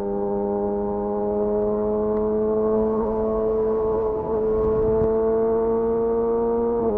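Exhaust note of a Yamaha YZF R6's inline-four through a de-catted Akrapovic slip-on, held at steady revs with the pitch slowly rising. There is a brief dip about four seconds in and a small drop in pitch near the end.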